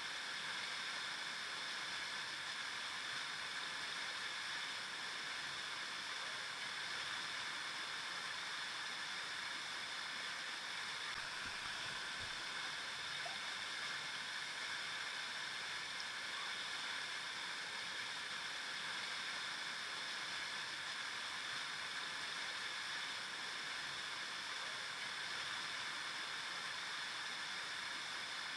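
Flowing river water: a steady rushing and babbling, even throughout.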